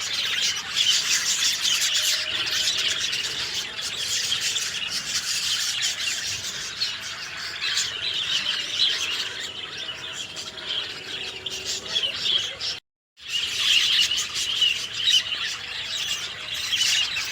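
Many songbirds chirping and twittering together in a dense, continuous chorus. The sound cuts out completely for about half a second near two-thirds of the way through, then the chorus resumes.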